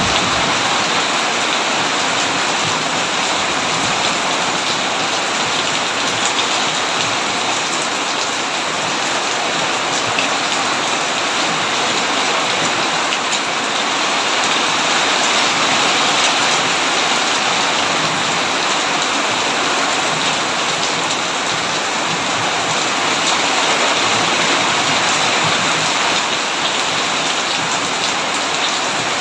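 Heavy rain falling on a tin roof: a steady, dense hiss of drops that holds level throughout, with no thunder.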